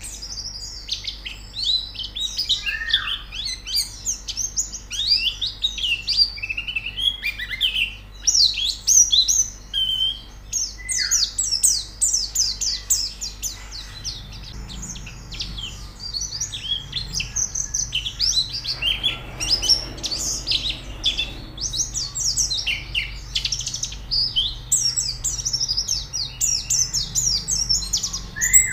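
White-eyes (pleci) singing: a dense, fast stream of high-pitched chirps and twittering trills, several birds overlapping.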